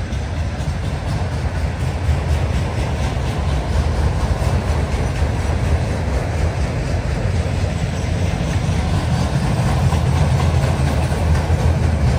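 A CN train's cars rolling past on the track: a steady, loud rumble of wheels on rail.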